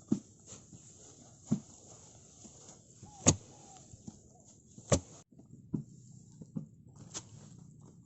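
A series of sharp knocks or thumps, about one every one to two seconds, the loudest two near the middle, over faint background noise.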